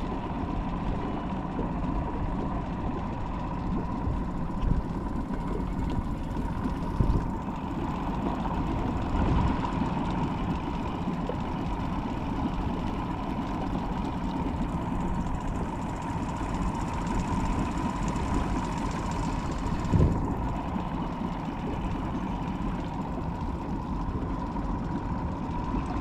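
Motorboat engine running steadily while the boat cruises, with a constant drone and a few brief thumps.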